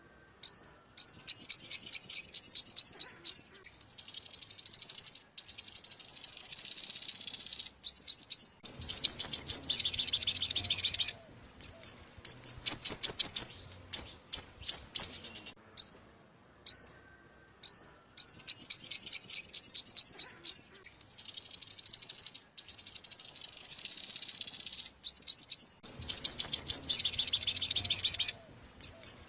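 Recorded song of a five-coloured sunbird: rapid series of high, quick down-slurred notes run into fast buzzy trills, in phrases a few seconds long with short clean gaps. The same sequence of phrases comes round again after about 17 seconds, a looped playback recording.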